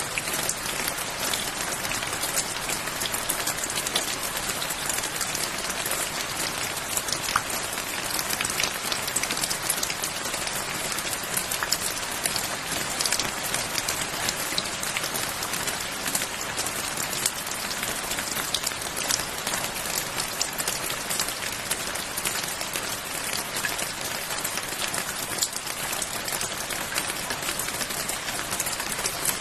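Steady rain falling, an even hiss with many individual drops pattering close by.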